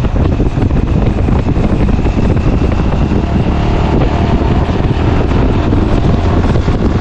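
Steady, loud wind buffeting the microphone of a GoPro Hero 9 on a moving motorcycle, mixed with the bike's running noise.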